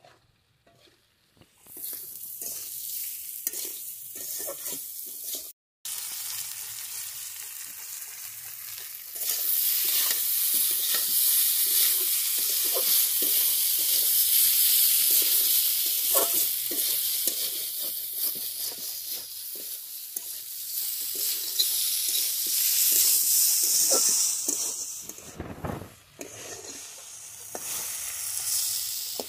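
Banana pieces frying and sizzling in a kadai while a long metal spatula stirs and scrapes them, with many short scraping strokes. The sizzle starts after a short quiet moment and grows louder about a third of the way in.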